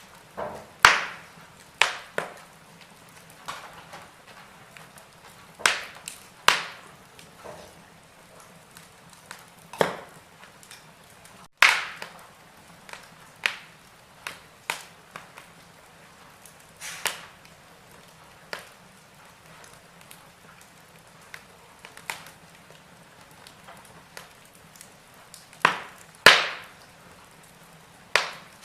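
Wood fire burning in a fireplace, crackling with irregular sharp pops and snaps, a few seconds apart, over a faint steady hiss.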